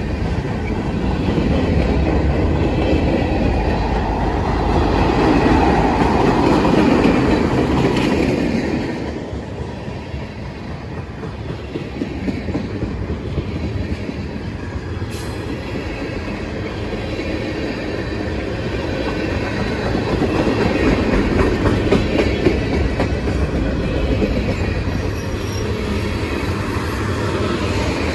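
Freight train cars, covered hoppers and then tank cars, rolling past at close range with a steady rumble and clatter of wheels on the rails. It swells louder for a few seconds near the start, eases off a little, then builds again later.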